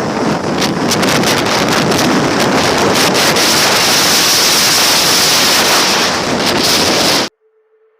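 Heavy wind buffeting on the microphone of a moving motorcycle, a loud steady rush that cuts off suddenly near the end, leaving near silence with a faint steady tone.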